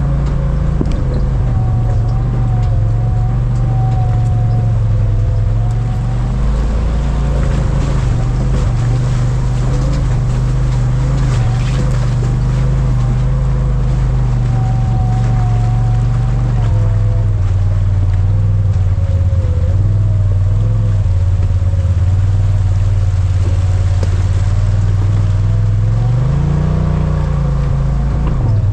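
Vehicle engine and drivetrain running steadily at low speed over a rough dirt trail, with a wavering whine above the engine's drone and scattered clicks. The revs rise briefly and drop back near the end.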